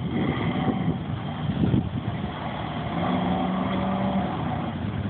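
Drag-racing car engines running at the starting line, with one drone held at a steady pitch for about a second around the middle, as the cars wait to launch.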